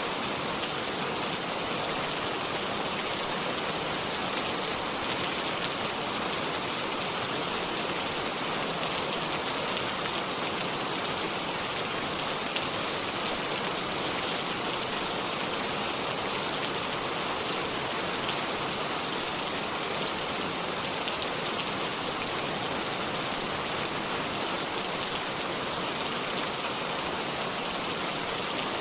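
Steady rainfall, an even hiss of drops with fine pattering on surfaces, no thunder or music.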